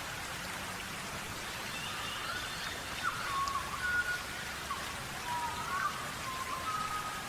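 Birds dust-bathing in sand: a steady hiss of sand being scratched and flicked. Several short, thin whistled calls come at intervals throughout.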